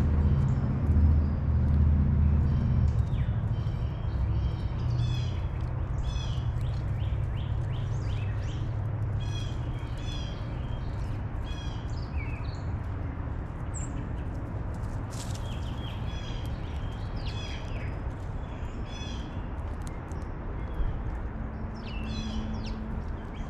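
Several small wild birds chirping and trilling in short, repeated phrases. Under them a low rumble is loudest in the first few seconds, then fades.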